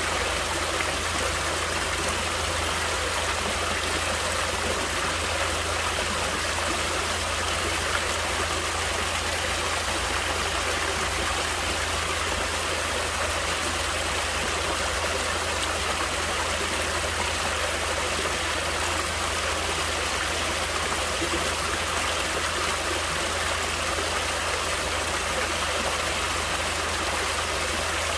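Stream water running over rocks, a steady, even rushing and splashing that holds without change.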